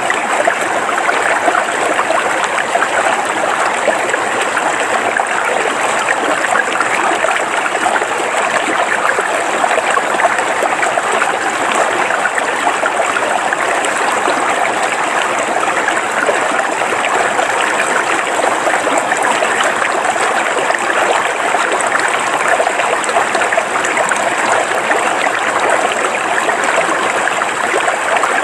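River water flowing steadily over rocks, an even babbling rush with no breaks.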